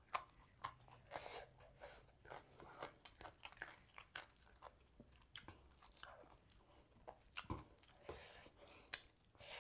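A person chewing and biting into a grilled chicken meal, with irregular crunches and wet mouth smacks.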